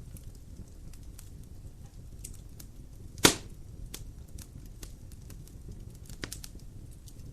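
Dry firewood burning in a fireplace: a steady low rush of flame with scattered small crackles, one loud sharp pop about three seconds in and a smaller one near the end.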